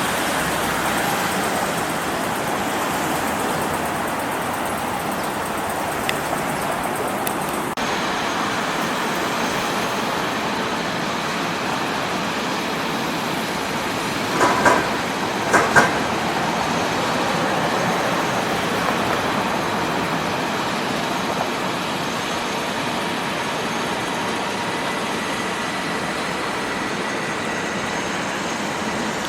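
Train running on the viaduct with a steady noise throughout, and two short, louder sounds about halfway through.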